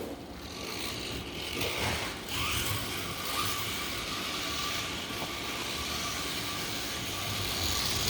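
Electric slot cars running around the track: a steady whir of small electric motors with faint rising and falling whines as the cars speed up and slow down.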